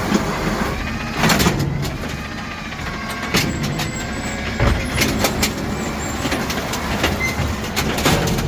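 Garbage truck working at a pickup: a steady low running noise with repeated clanks and knocks, and a faint motor whine that rises and falls about a second in.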